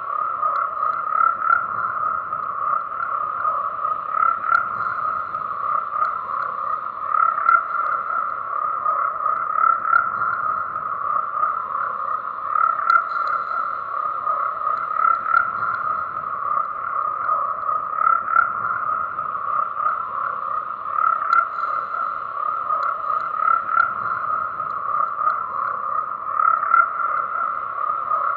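Frogs croaking in a dense, continuous chorus, the calls overlapping into a steady pulsing drone that swells slightly every few seconds.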